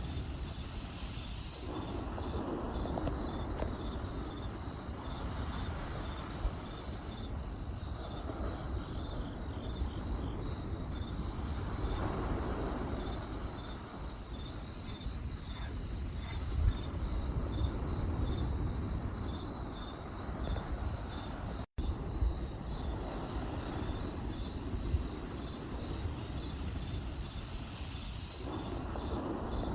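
Crickets chirping in a steady, even pulsing trill over the low rushing of a campfire, with a few sharp pops from the burning wood. The sound cuts out for an instant about two-thirds of the way through.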